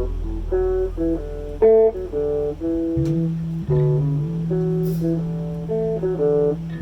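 Instrumental music: a guitar picking a melody of short plucked notes over sustained bass notes.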